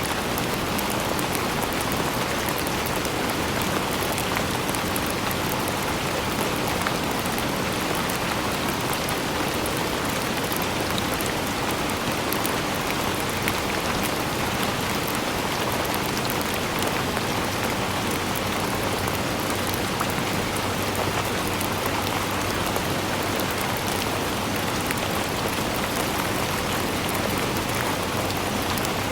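Steady rain falling: an even, unbroken hiss of many drops with fine patter in the highs.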